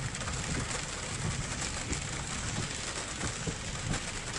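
Steady rain noise with the low hum of a Nissan Frontier pickup's road and engine noise, heard from inside the cab in slow traffic.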